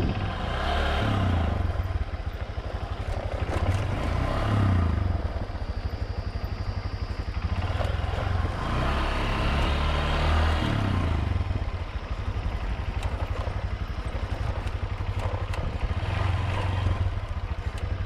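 Motorbike engine running while riding, the engine note swelling and easing several times with the throttle.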